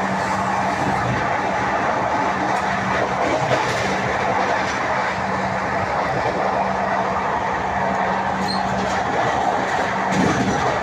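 Steady running noise of an express train heard from inside a passenger coach: wheels rumbling on the rails under a constant low hum.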